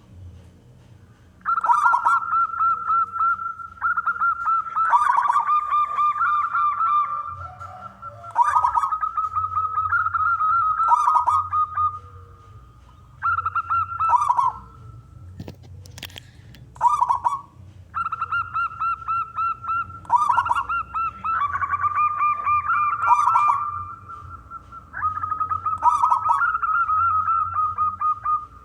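Zebra dove (perkutut) cooing: repeated phrases of fast, pulsed, trilling coos, each a few seconds long, separated by short pauses.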